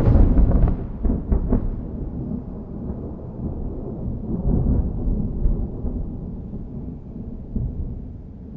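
Thunderclap: a sudden loud crack with a few sharp splits in the first second and a half, then a long low rumble that rolls on and slowly fades.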